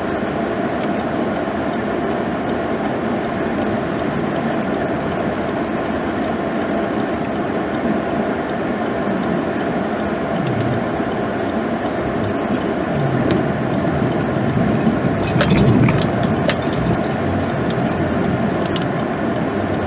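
2016 GMC Sierra plow truck driving, a steady run of engine and road noise. A few sharp clicks come about three quarters of the way in.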